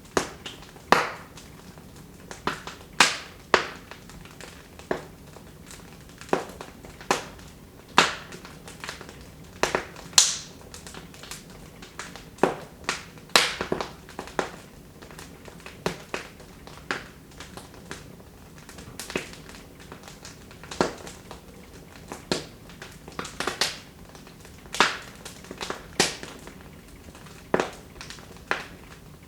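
Wood fire in a fireplace crackling: irregular sharp pops and snaps, roughly one a second, some much louder than others, over a faint steady hiss.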